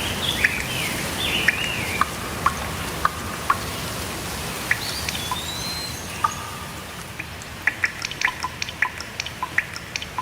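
Steady rain hiss, with birds chirping for the first two seconds and a single whistled call about halfway through. From about seven seconds in, close drops of water plink quickly and irregularly.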